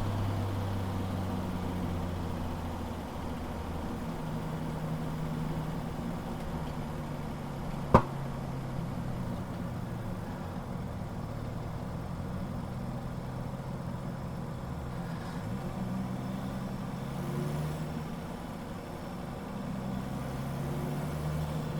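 Car engine running at low revs, close to idle, its pitch drifting slowly up and down. A single sharp click sounds about eight seconds in.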